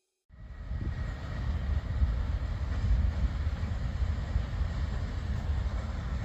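Newag Dragon 2 electric locomotive on the move, a steady low rumble of wheels on rail that fades in after a moment of silence and then holds level.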